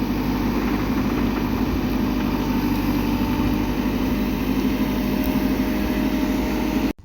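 An engine running steadily at a constant speed, cutting off abruptly near the end.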